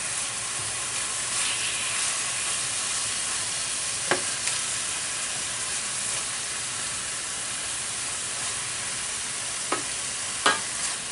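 Strips of filet mignon searing in hot olive oil in a pan, a steady sizzle. A few short sharp clicks come through it, one about four seconds in and two near the end.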